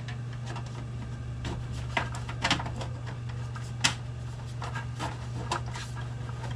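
Scattered light clicks and knocks of a drive tray being handled and pushed into a desktop computer case, the sharpest about four seconds in, over a steady low hum.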